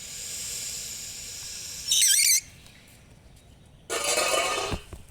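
Pool machine switched on, hissing steadily with air and water rushing through its hose, a short loud squeal about two seconds in and a louder hissing burst near the end.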